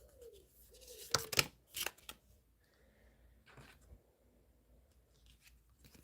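Tarot cards being shuffled and drawn: a few sharp card snaps between one and two seconds in, then faint rustling.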